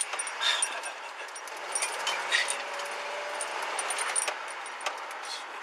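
Light metallic jingling and scattered clicks over a steady hiss.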